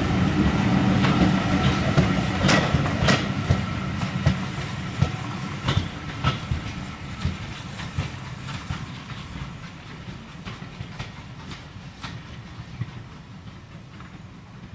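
Train's passenger coaches rolling past, their wheels clicking irregularly over the rail joints. The sound fades steadily as the train moves away.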